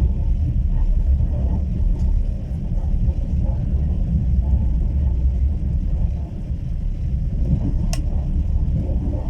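Steady low rumble of a passenger train in motion, heard from inside the carriage: wheels and bogies running on the rails. There is a single sharp click about eight seconds in.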